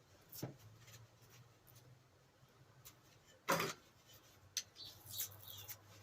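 Scattered small clicks, scrapes and knocks of a grinder's parts being handled during disassembly, with one louder knock about three and a half seconds in.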